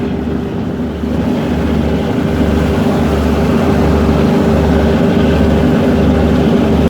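Boat engine running steadily: a constant hum over a deep, low throb that pulses about once a second.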